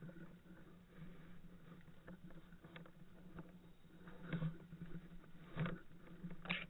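Irregular rustling and scuffing movement noise with a steady low hum, and three louder knocks in the second half.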